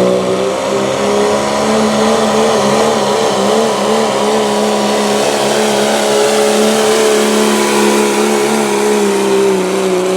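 Diesel pickup truck's engine held at high, nearly steady revs under full load as it drags the pulling sled down the track; the pitch wavers briefly a few seconds in, then steadies.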